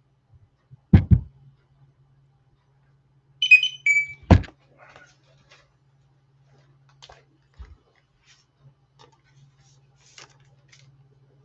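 Handling noise at a table: two heavy thumps about a second in, a brief high ringing chime of a few short tones, then another heavy thump, followed by faint scattered clicks and rustles.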